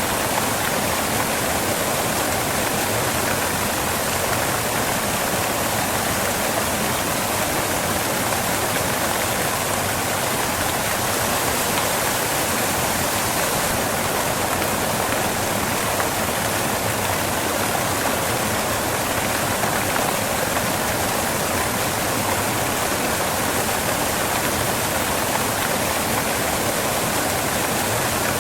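Waterfall water falling and crashing on rocks: a steady, unbroken rushing.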